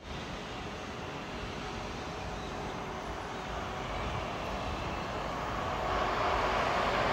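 Distant train approaching along the line: a steady running noise that grows gradually louder, fuller in the last second or so.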